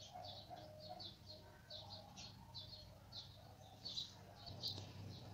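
Faint birds chirping in the background: short high chirps repeating a few times a second, over a low steady hum.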